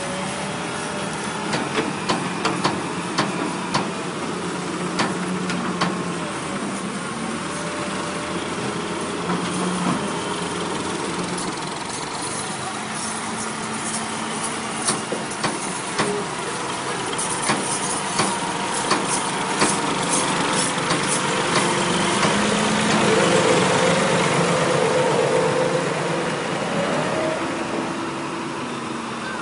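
Tractor engine running steadily, with a scatter of sharp clicks through the first two-thirds and a louder stretch about three-quarters of the way through.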